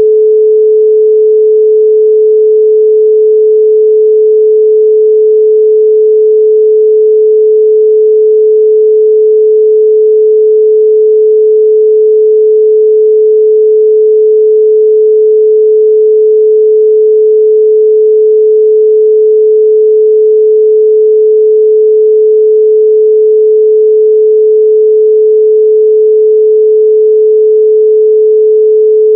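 A steady, loud 432 Hz pure sine tone, a single unchanging pitch with no other sound.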